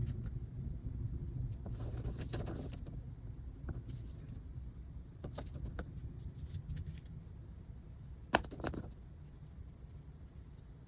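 Scattered light clicks and taps of small parts and tools handled on a workbench while reed leathers are glued onto accordion reed plates, the loudest pair near the end, over a low rumble that fades away.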